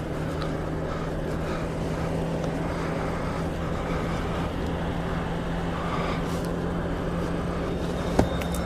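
A 250 cc motorcycle engine running at a steady speed while riding, over steady road and wind noise, with one sharp click near the end.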